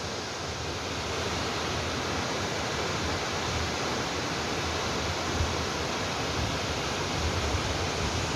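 Steady rush of a large waterfall, water crashing down without a break.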